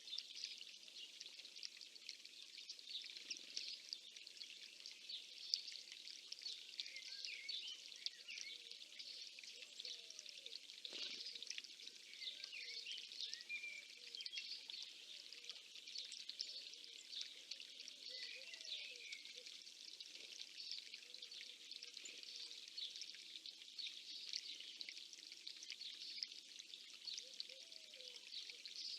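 Faint, dense chorus of many small songbirds chirping and trilling without a break.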